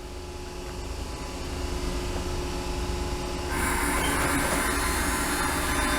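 Electric train running at the platform, growing steadily louder, with a rush of higher-pitched noise joining about three and a half seconds in.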